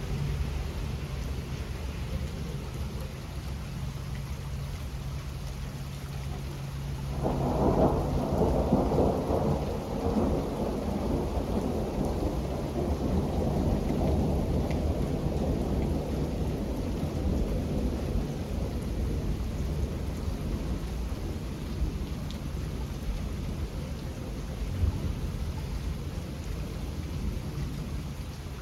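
Steady rain with a long roll of thunder that swells about seven seconds in and slowly rumbles away over the next ten seconds or so.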